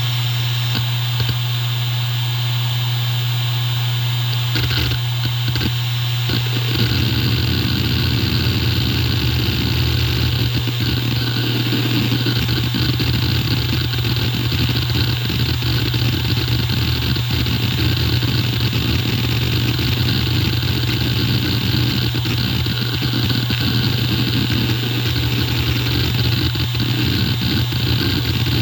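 Hitachi Deskstar E7K500 (HDS725050KLA360) 7200 rpm hard drive spinning with a steady hum. From about five seconds in, its heads seek in fast, irregular clicking as the drive is worked.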